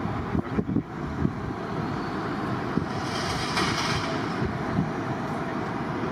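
Steady low rumble and rushing of jet aircraft engines, with wind buffeting the microphone. The rushing swells briefly about halfway through.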